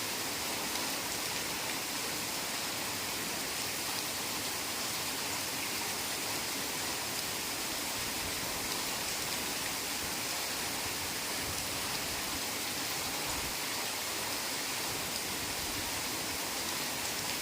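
Heavy rain falling steadily in a forest, an even unbroken hiss.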